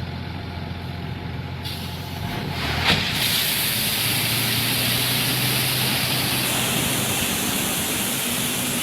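Dump truck engine running steadily. About three seconds in there is a click, then a loud steady hiss of air.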